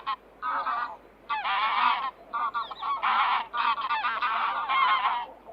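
Goose honking in a rapid series of about ten calls, one of them longer than the rest.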